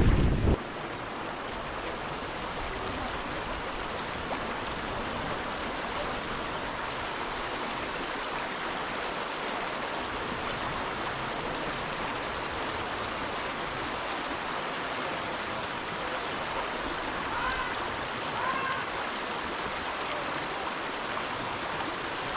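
River water rushing steadily over rocks, an even unbroken stream noise. A gust of wind on the microphone cuts off just after the start.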